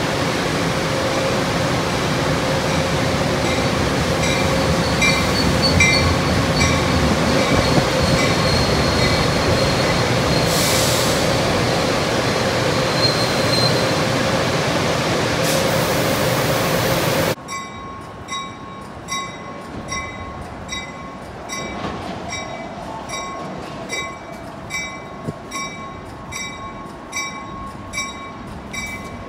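NJ Transit push-pull train led by an Alstom Comet V cab car pulling into the station: loud rolling wheel noise with a steady whine and a bell ringing. About two-thirds of the way through the level drops sharply, and the bell goes on ringing evenly, about one and a half strokes a second, as the cars roll slowly past.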